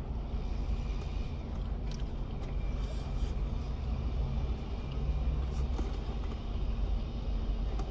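Car engine idling: a steady low hum with a few faint clicks.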